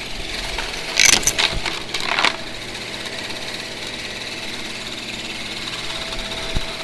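Vacuum cleaner motor running steadily, with two short louder bursts of noise about one and two seconds in.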